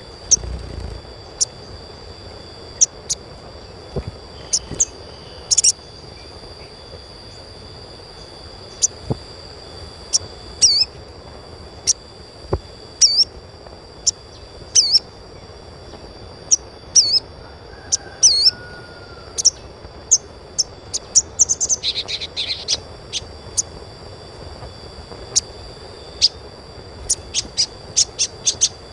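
A sogon (sogok ontong) sunbird giving short, sharp, high chirps at irregular intervals, some with a falling hook. Some of the chirps come in a quick flurry a little past the middle. A faint steady high tone runs beneath them.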